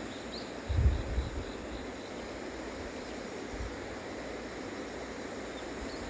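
Steady outdoor rushing noise, with wind buffeting the microphone in low gusts about a second in and again briefly a few seconds later.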